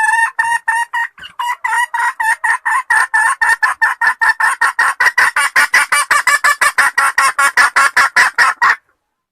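Junglefowl hen calling for a male: a long rapid run of short clucks, about five a second, that stops abruptly near the end.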